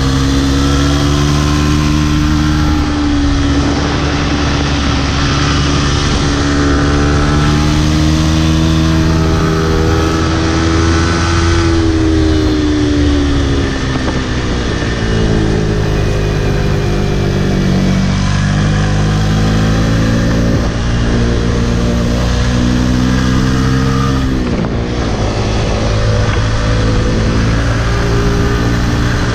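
Yamaha MT-15's single-cylinder four-stroke engine being ridden under throttle. Its pitch holds steady for the first dozen seconds, sags, then climbs again. It drops sharply about 25 seconds in and then rises once more.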